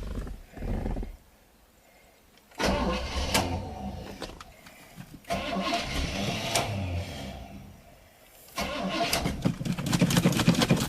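1979 Chevrolet Caprice's V8 being cranked and started after sitting for two years: it fires in bursts that die out, two brief ones and then two of a couple of seconds each, and catches again about three-quarters of the way in, running unevenly with crackles.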